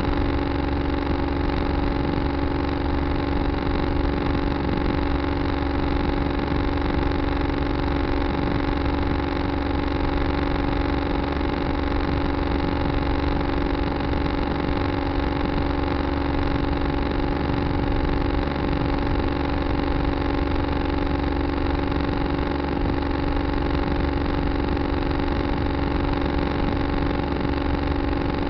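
Tractor engine running at a steady speed, a constant drone that does not change.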